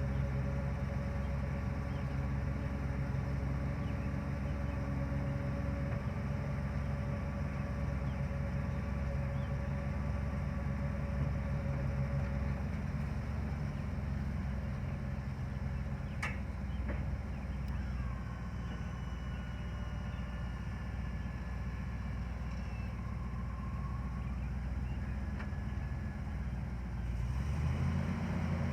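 A 1992 Ford dump truck's engine idling steadily. A single sharp click comes partway through, and near the end the running turns deeper and a little louder.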